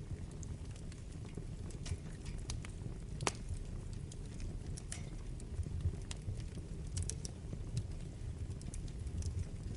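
Wood fire burning in a fireplace: a steady low rumble of flames with irregular sharp crackles and pops, the loudest pop about three seconds in.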